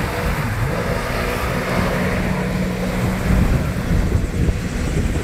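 Jet ski engine running steadily, with wind buffeting the microphone.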